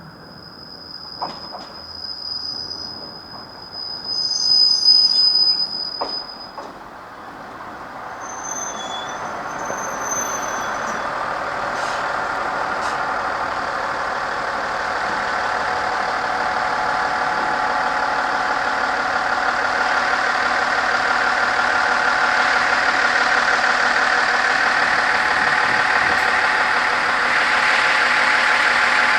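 Tenryu Hamanako Railway TH2100 diesel railcar pulling into the station, its running noise growing steadily louder from about a third of the way in, with wheels and brakes squealing as it slows. A high steady tone sounds for the first six seconds or so.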